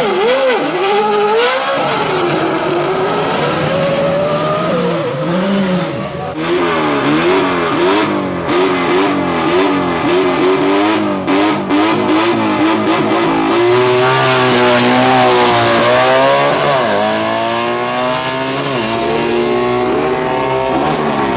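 Hill-climb race car engine revving hard, its pitch jumping up and down rapidly through quick gear changes and throttle blips, with sharp pops in the exhaust. Later it pulls with long rising sweeps in pitch as it accelerates away.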